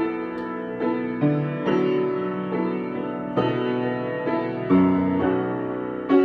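Solo piano improvising slowly, with chords struck and held and a new chord or note change about every half second to a second.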